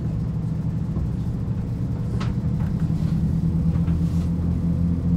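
Inside a diesel multiple-unit passenger train running at speed: a steady low engine drone over wheel-on-rail rumble, the engine note growing a little louder in the second half.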